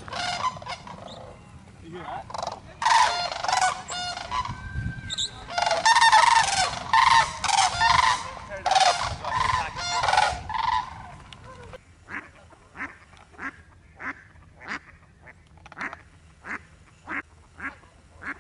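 Sandhill cranes calling: loud, rolling trumpet-like calls in repeated bursts for most of the first eleven seconds. These are followed by a steady series of short, quieter calls, about two a second.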